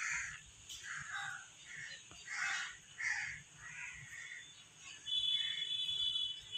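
A bird calling repeatedly, short harsh calls coming every half second to a second, with a thin high steady tone over the last second and a half.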